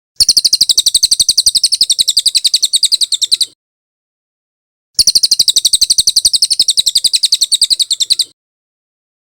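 Bird song: two long, rapid trills of sharp, high-pitched notes, each lasting about three seconds, separated by a pause of a second and a half.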